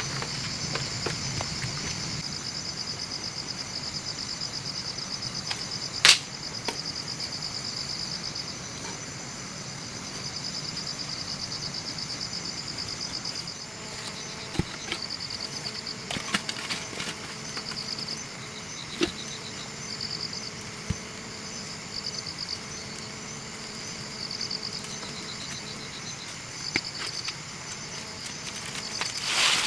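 Insects trilling in a fast high pulsing buzz, unbroken at first and then in short repeated bursts, with a few sharp clicks or knocks, the loudest about six seconds in.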